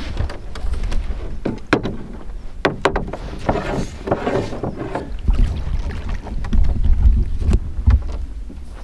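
Small sailing dinghy under way: water washing along the hull with a few sharp slaps and knocks, and wind rumbling on the microphone, heaviest in the second half.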